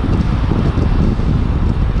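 Heavy wind buffeting on the microphone of a moving Suzuki V-Strom 800DE, with the bike's parallel-twin engine running steadily underneath.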